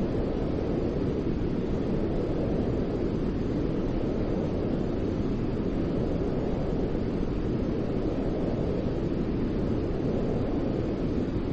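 Steady white-noise track for lulling a baby to sleep: an unbroken deep rushing hiss, strongest in the low range, with no change.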